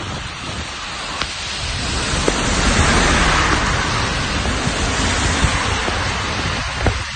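Heavy rain with a low rumble of thunder that swells about two seconds in and slowly fades.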